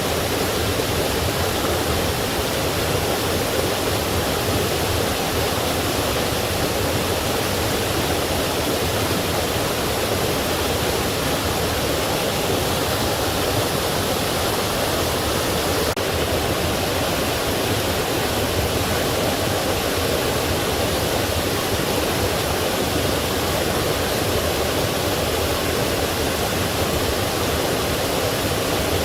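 Forest stream rushing over rocks, a steady, unbroken roar of running water.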